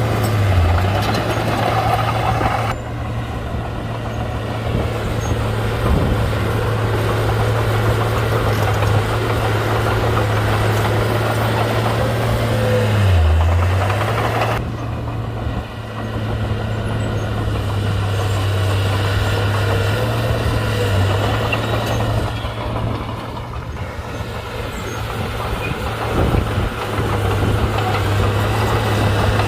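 Komatsu D31-P bulldozer's diesel engine running steadily as the dozer works dirt, its pitch dipping briefly twice: once about a second in and once near halfway.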